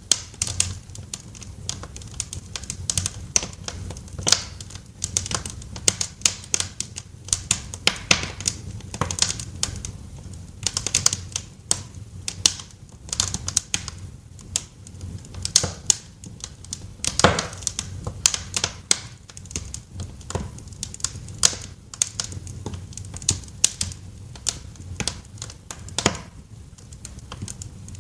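Wood fire crackling in a fireplace: irregular sharp pops and snaps, several a second, over a steady low rumble. One of the loudest pops comes a little past the middle.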